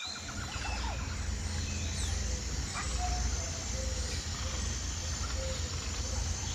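Small birds calling with short whistles and chirps over a steady low rumble, with a thin high steady hum.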